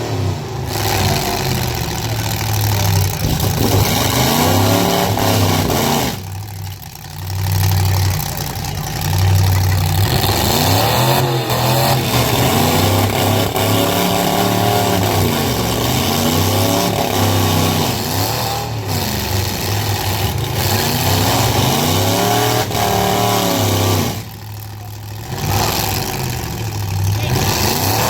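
A loud truck engine revving hard, its pitch sweeping up and falling back again and again, with two brief drops in loudness.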